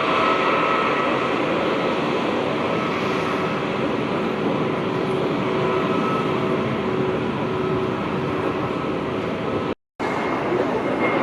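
Jet airliner engines running, a loud steady roar with a steady whine over it. The sound drops out for a split second near the end, then resumes.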